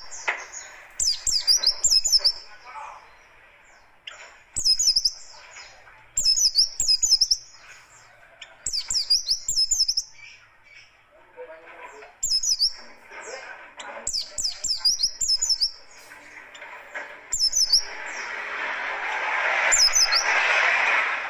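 White-eye (pleci) singing in fast, harsh bursts of rapid high chirps, each burst about a second long and repeated every couple of seconds. A rushing noise underneath grows louder near the end.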